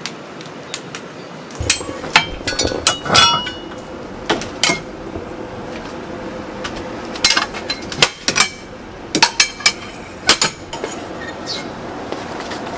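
Irregular knocks and clinks of metal kitchenware being handled, a few ringing briefly.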